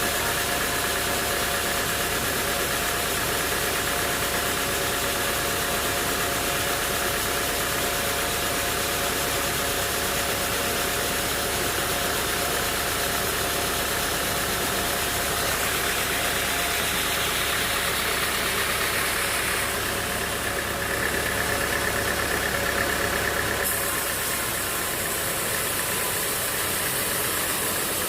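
Sawmill machinery running steadily: an engine-driven saw with a constant whine, its tone shifting a few times as the work goes on.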